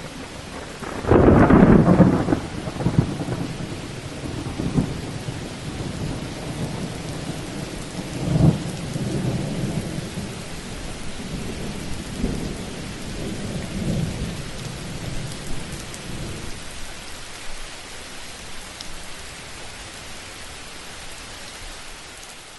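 Thunderstorm: steady rain with a loud thunderclap about a second in, followed by long rolling rumbles and a second sharp crack around eight seconds. The rumbling dies away after about sixteen seconds, leaving only the rain.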